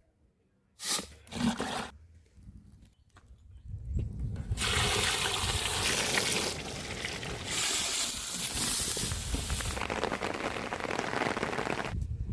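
Steady rushing, splashing water noise that starts about four seconds in, swells and eases, and cuts off abruptly near the end; two brief rustling knocks come first.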